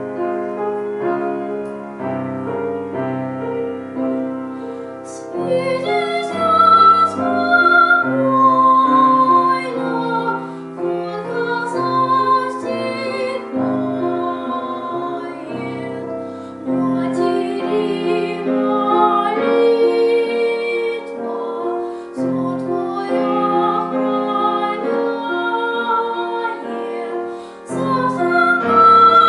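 A piano plays alone for the first few seconds, then a female voice comes in about five seconds in, singing a slow lullaby in long phrases over the piano accompaniment.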